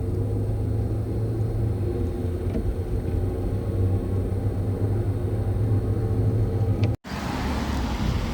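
A steady, low engine hum that cuts off abruptly about seven seconds in and is followed by a noisier rumble.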